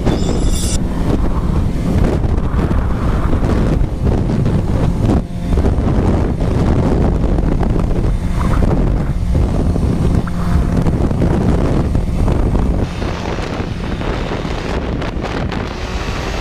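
Wind rush buffeting the microphone at riding speed on a BMW S1000RR inline-four sport bike, with the engine's steady note faint underneath. The rush eases a little about thirteen seconds in.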